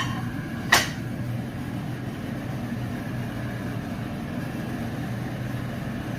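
Two sharp clicks about three-quarters of a second apart near the start, then a steady low mechanical hum in the kitchen.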